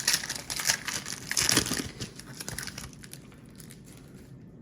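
Trading card pack wrapper crinkling as it is torn open and handled, loudest in the first two seconds and dying away after about three.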